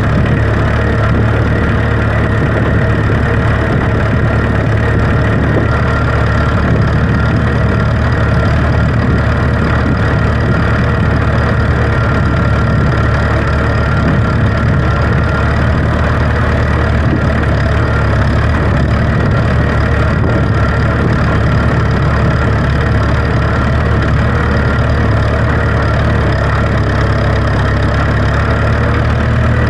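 An engine running steadily at a constant speed, a deep even hum that does not change.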